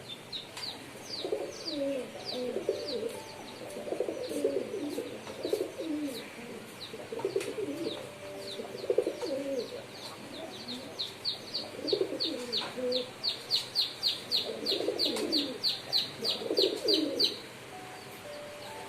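Pigeons cooing in repeated rolling phrases, with a fast, high chirping of several notes a second alongside that grows busier and then stops shortly before the end.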